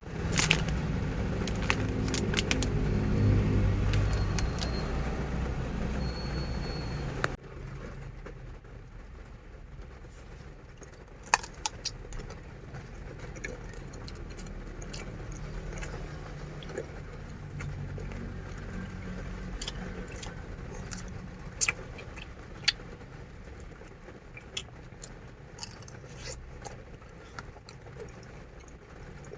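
A vehicle engine running with a low rumble, which cuts off suddenly about seven seconds in. A quieter low hum follows, with scattered sharp clicks and light knocks.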